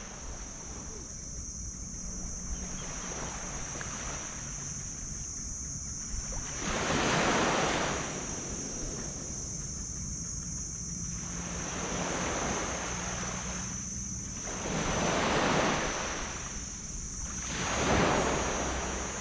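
Sea waves washing onto a black sand beach, swelling and receding about four times, loudest about seven seconds in and near the end. A steady high-pitched hiss runs underneath, with low wind rumble on the microphone.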